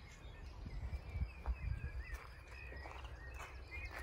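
Birds chirping in short scattered calls over a low, uneven rumble.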